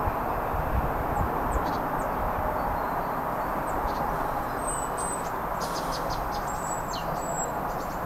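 Small birds chirping with short, high-pitched chirps and tweets, scattered through and busiest in the second half, over a steady rushing background noise. A few low rumbles sound near the start.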